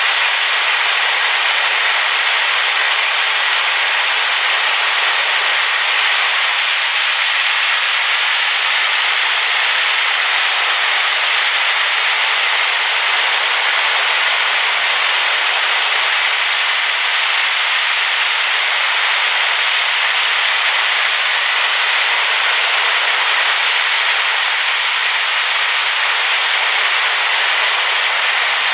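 Waterfall swollen with rain, its falling water making a loud, steady hiss that stays even throughout, with little bass.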